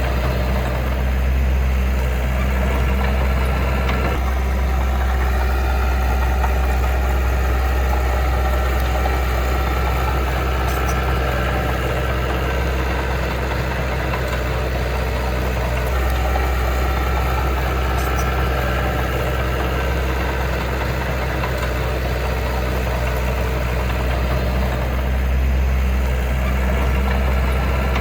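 Heavy earthmoving machine's diesel engine running steadily, with a deep even drone and no revving.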